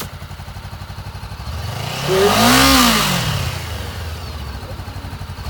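Honda CBR500R's liquid-cooled, fuel-injected parallel-twin engine idling, then revved once about two seconds in: the pitch rises and falls back to idle within about a second.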